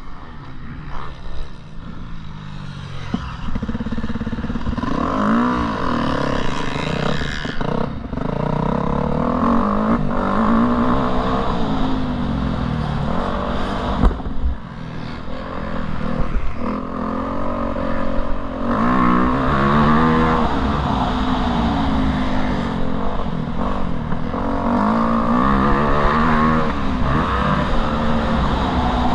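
Motocross motorcycle engine being ridden hard, revving up and dropping back again and again as the throttle opens and closes.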